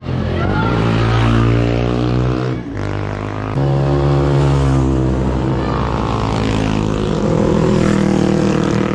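Motorcycle engine running on the road, its pitch climbing as it accelerates in the first second. There is a short dip about two and a half seconds in, and then it runs on steadily.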